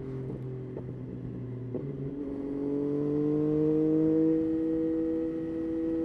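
Yamaha Tracer 9's three-cylinder engine running under way, its pitch rising gently about halfway through and then holding steady, with a few short clicks in the first two seconds.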